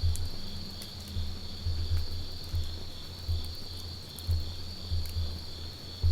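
Campfire burning, with sparse faint crackles and pops, over a steady high chirring of insects such as crickets. Irregular low rumbling swells come and go every half second or so and are the loudest thing heard.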